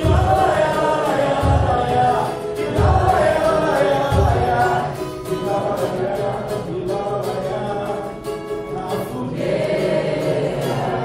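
Several voices singing a song together with musical backing. Heavy low drum beats land about every second and a half during the first four seconds.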